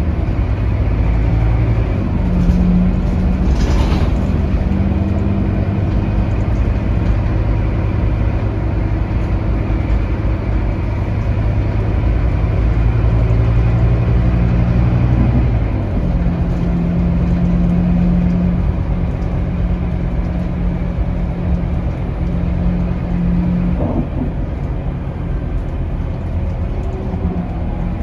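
Scania DC9 five-cylinder diesel of a Scania K280UB city bus running under way, heard on board. The engine's low drone climbs slowly in pitch, then drops suddenly about halfway through, an upshift of the ZF Ecolife automatic gearbox. A brief hiss comes about four seconds in.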